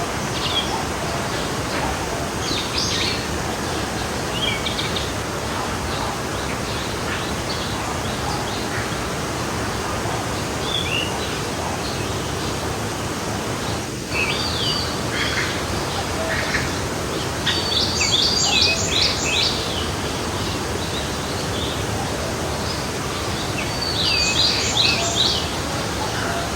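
Forest stream flowing steadily, with birds singing over it: scattered short chirps, and two louder runs of quick repeated notes, one about two thirds of the way through and one near the end.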